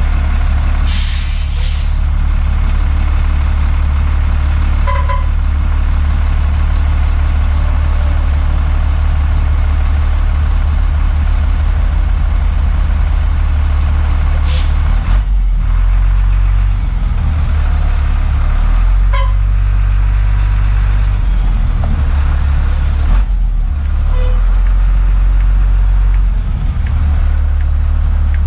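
A steady, deep engine-like rumble of a large machine, with a few sharp clicks and a couple of short squeaks.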